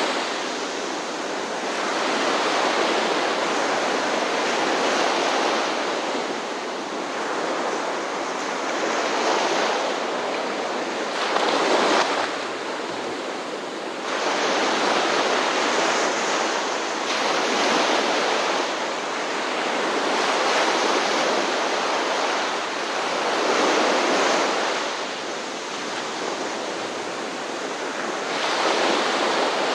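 Ocean surf washing onto a shore, a steady rush of noise that swells and falls back every few seconds, with one sharper surge about twelve seconds in.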